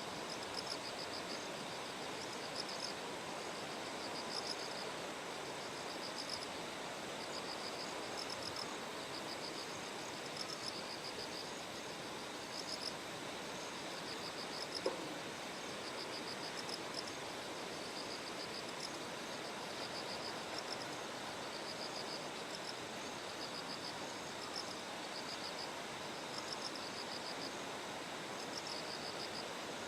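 Bell crickets (suzumushi) singing, short trilled chirps repeating about once a second, over a steady rushing background noise. There is one brief click about halfway through.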